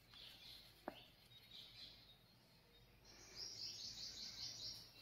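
Faint bird chirps over a quiet field background, ending in a quick run of repeated high notes, about five a second, in the last two seconds. One soft click about a second in.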